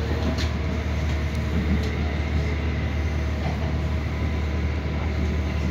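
Interior running noise of an Irish Rail 29000-class diesel multiple unit in motion: a steady low rumble under an even noise of the train on the track.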